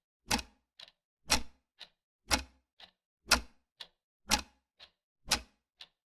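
Clock ticking sound effect: a loud tick once a second with a softer tock halfway between, evenly spaced over dead silence.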